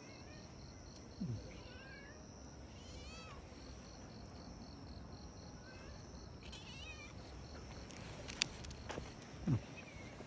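A cat giving short, faint meows, one about a second in and a louder one near the end, over a steady high chirping of insects.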